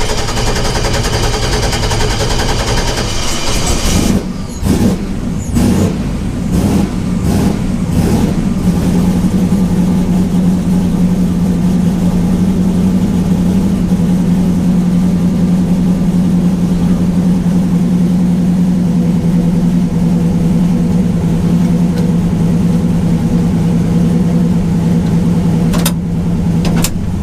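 Turbocharged LS V8 pickup engine running hard, with several quick throttle lifts about four to eight seconds in, then settling into a steady drone.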